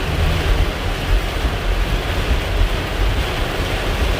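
Heavy rain falling hard on a moving car, heard from inside the cabin as a steady loud hiss, over a deep low rumble from the car and its tyres on the flooded road.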